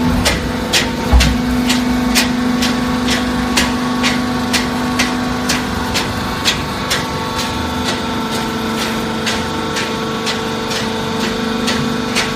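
Full-automatic horizontal baler running: a steady machine hum with a regular ticking about twice a second, and one heavy thump about a second in.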